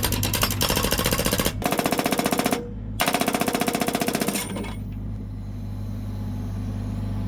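Hydraulic breaker on a Volvo EC60E mini excavator hammering rapidly into a log to split firewood, with a short pause. It stops about four and a half seconds in, leaving the excavator's engine running steadily.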